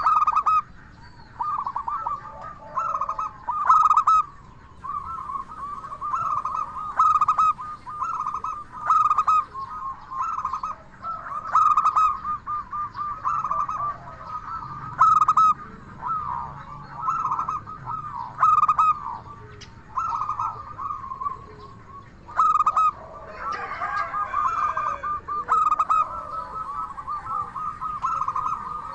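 Zebra dove (perkutut) cooing over and over: phrase after phrase of rapid, rippling coos with short gaps between them.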